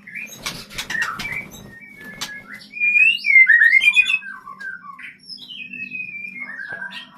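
Caged white-rumped shama giving a run of short chirps and gliding whistled notes, with a burst of rustling and clicks in the first second or so as the nest is handled.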